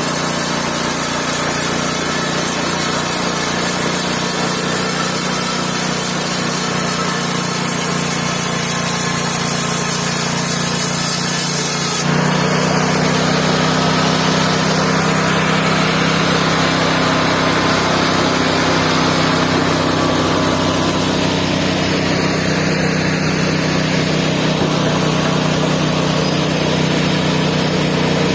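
Mobile band sawmill running steadily, with machine noise and a high hiss. About twelve seconds in, the sound changes abruptly: the hiss cuts off and the machine runs on with a steady hum.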